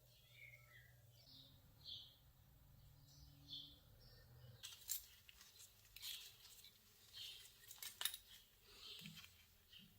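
Faint, sharp clicks and clinks of small hard objects being handled, coming thick from about halfway through, with faint bird chirps before them.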